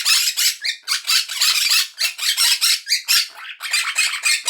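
Quaker parrot (monk parakeet) screeching in a loud, rapid string of harsh squawks, several a second without a break, the agitated calls of an angry bird.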